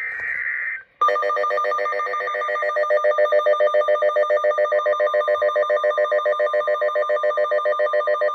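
A weather radio alert: a short buzzing burst of digital alert data, then a loud electronic alarm pulsing rapidly at about five beats a second, the signal that a severe thunderstorm warning is coming.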